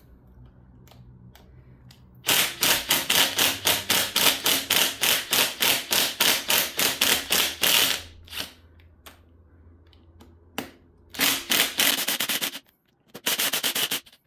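Power tool rattling in rapid bursts of about seven strikes a second: one long burst of several seconds, then two short ones near the end.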